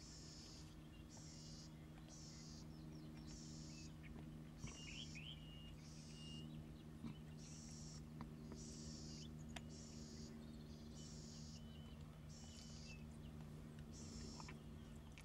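Faint outdoor ambience: a high buzz that comes in pulses of about half a second, roughly once a second, over a steady low hum, with a few short bird chirps about five seconds in.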